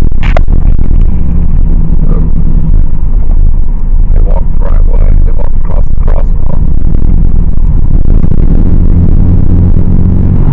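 Car engine and road rumble heard from inside the moving car, loud and steady, with the engine note strengthening near the end as it pulls away. A sharp click sounds just after the start.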